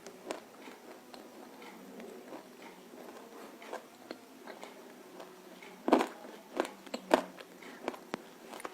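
Crunchy bites of roasted edible clay: faint small clicks for a few seconds, then a loud crunching bite about six seconds in and two more crunches within the next second, with a few softer clicks after.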